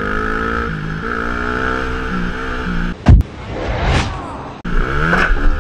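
Dirt bike engine running and revving in steps, with one heavy low thud about three seconds in; the engine revs up again near the end.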